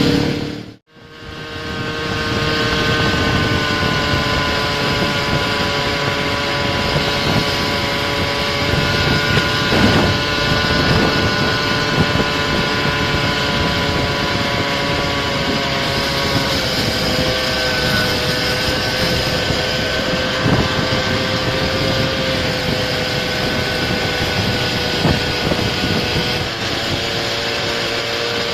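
Scooter engine running steadily while riding, with a constant engine note over road and wind noise. The sound drops out completely for a moment just under a second in.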